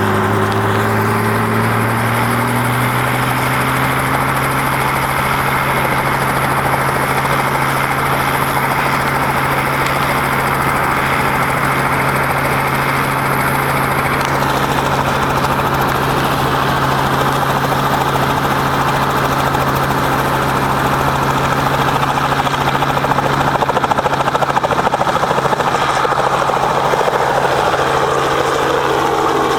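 Helicopter rotor and engine running with a steady, loud drone; the pitch rises over the first few seconds, then holds.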